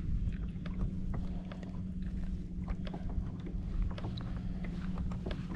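Irregular light clicks and knocks of a kayak and its gear rocking on the water, over a steady low hum and rumble.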